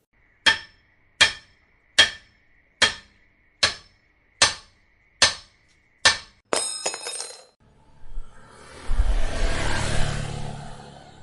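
Test playback of animation sound effects: eight sharp knocks about 0.8 s apart over a faint steady tone, then a bright ringing strike about six seconds in, then a longer crash with a low rumble that fades out.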